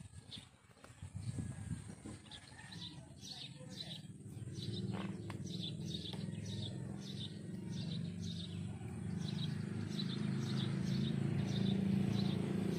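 A bird chirping over and over, about two short falling chirps a second. Under it, a steady low rumble grows louder from about four seconds in.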